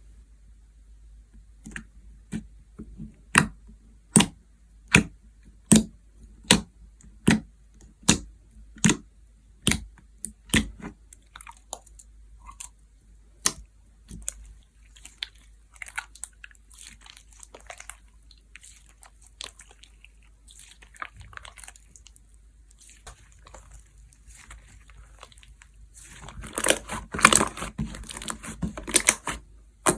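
Hands pressing and squishing soft slime. For the first ten seconds there are sharp popping clicks at an even beat, a little over one a second. Softer sticky crackling follows, with a dense, louder run of squishing pops near the end.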